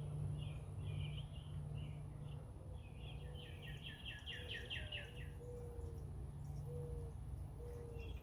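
Small birds chirping, with a fast trill of rapid notes a few seconds in, over a low steady background hum.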